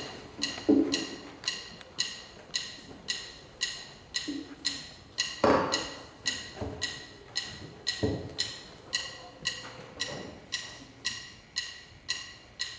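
Steady clock-like ticking, crisp wood-block-like ticks at about two a second, with a few dull thumps among them, the loudest about five and a half seconds in.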